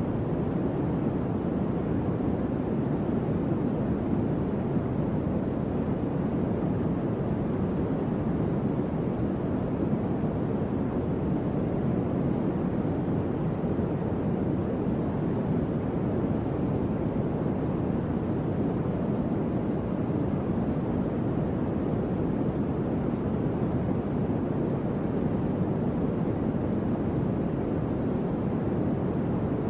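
Electric fan running with a steady, even whoosh of moving air, deep and smooth, with no clicks or changes.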